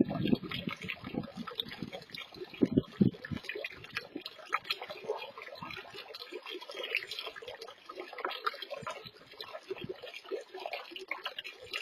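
Water splashing and trickling in a small garden pond, with heavier, deeper splashes in the first three seconds and a lighter trickle after.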